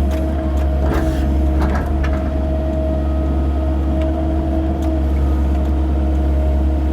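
Excavator's diesel engine running steadily under load, with a strong low hum and a steady whine above it, and a few short knocks in the first two seconds and again near five seconds.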